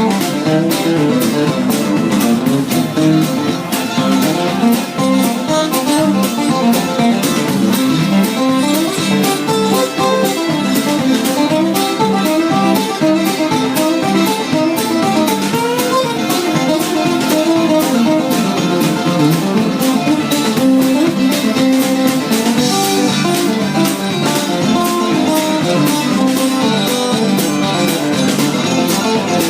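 Live band playing an instrumental break, with guitar picking a busy melodic line over a steady beat.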